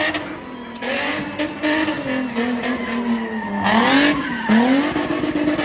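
Car spinning on a tarmac pitch, its engine held high in the revs and rising and falling, with bursts of tyre squeal as the rear wheels spin.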